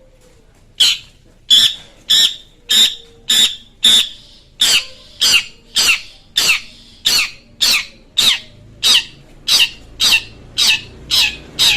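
Long-tailed shrike (cendet) giving a long run of short, harsh, downward-sweeping calls, a little under two a second. They begin about a second in and speed up slightly toward the end.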